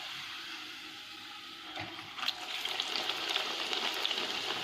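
Hot oil sizzling as ragi (finger millet) rotti patties fry. About two seconds in come a couple of sharp clicks, and from then on the sizzling is louder, with small crackles.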